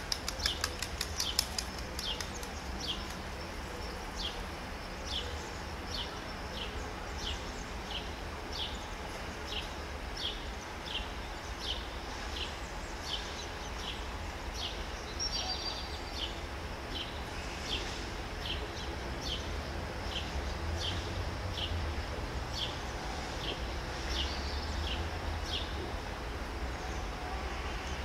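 A bird repeating a short, high, falling chirp over and over, about one every two-thirds of a second, with a quick run of rapid ticks in the first second or so. A low steady rumble lies underneath and grows slightly louder in the second half.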